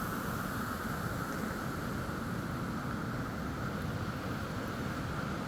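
Steady rushing of running water, storm runoff after heavy rain, with no breaks or separate splashes.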